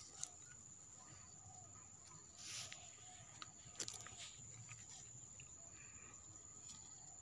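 Near silence: faint outdoor background with a steady high-pitched tone, a few soft clicks and a brief rustle.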